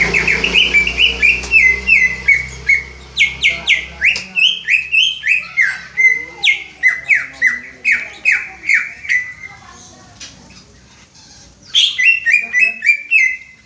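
Greater green leafbird (cucak ijo) calling a rapid run of short, downward-sliding whistled notes, about three a second. It pauses for about two seconds near the end, then starts again.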